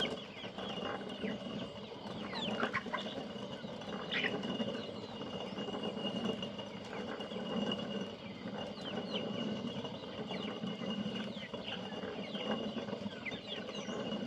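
Hand-turned stone mill grinding corn: a rough, low grinding rumble that swells and eases every second or two as the upper stone is turned.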